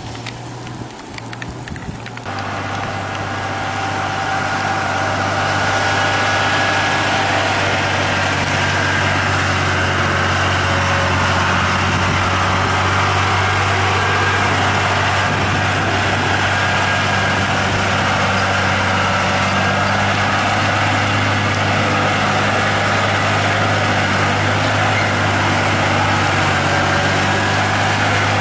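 Truck engine running at a steady low pitch, a constant heavy drone that builds in loudness over the first few seconds and then holds. Wind-like noise fills the first couple of seconds before the engine comes in.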